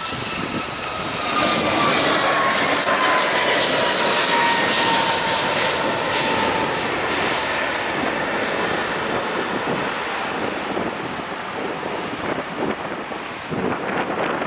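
Jet airliner passing low overhead. Its engine whine falls in pitch as it goes by, and the noise is loudest a couple of seconds in and then fades slowly.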